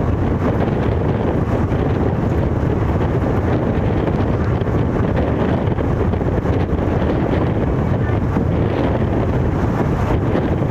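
Steady rumble of a running train, with wind buffeting the microphone.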